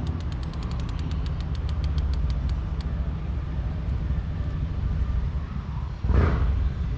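A fishing reel clicking, a dozen or so sharp ticks over about three seconds that start quick and slow down, over a steady low rumble. A short, louder rush of noise comes near the end.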